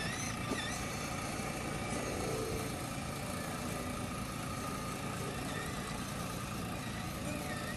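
Steady engine-like drone from a child's ride-on quad bike running, with a few faint short chirps above it near the start and again near the end.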